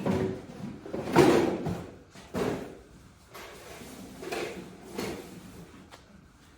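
Rummaging: a run of clattering knocks and scrapes, about five separate bursts, as things are moved around in a search, the loudest a little over a second in.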